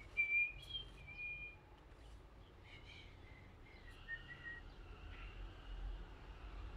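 A bird chirping: short high notes, the loudest in the first second and a half, then scattered calls, over a faint low background rumble.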